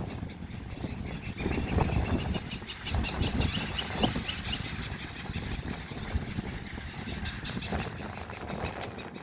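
Wind buffeting the microphone with a low rumble and occasional knocks, under a rapid run of short, high chirps from birds or insects that starts about a second and a half in and fades near the end.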